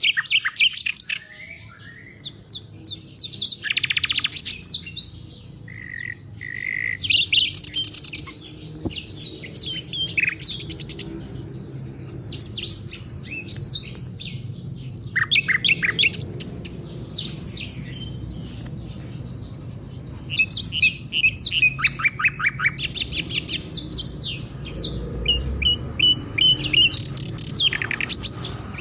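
African songbirds singing: quick repeated chirps, rapid trills and chattering phrases in a continuous stream, with a pair of short, clear whistled notes about six seconds in.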